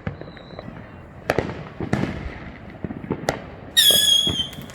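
Consumer fireworks going off: several sharp bangs from exploding shells and firecrackers with smaller crackles between them. A brief whistle sounds near the start, and a loud, shrill whistling firework sounds about four seconds in, slightly falling in pitch.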